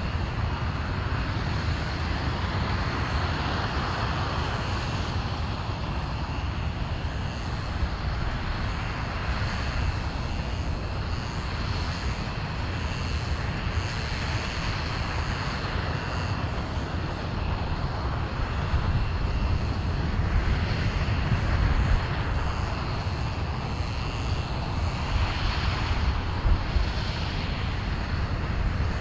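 Aerojet Rocketdyne RS-25 liquid-hydrogen/liquid-oxygen rocket engine firing on a test stand: a steady deep rumble that swells and fades every few seconds.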